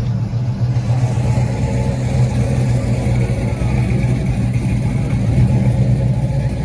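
A 1967 Plymouth GTX's 440 Super Commando big-block V8 running steadily with a deep, pulsing drone.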